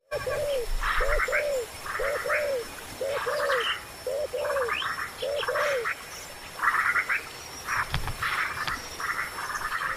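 Animal calls: a low arching note given in pairs about once a second, alternating with bursts of rapid high chattering.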